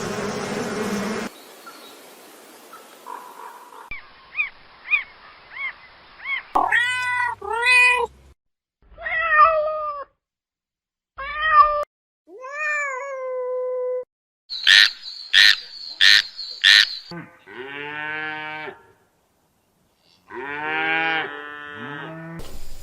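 A run of short, separate animal calls cut together, several of them cat meows that rise and fall in pitch, with a burst of four short high calls in the middle.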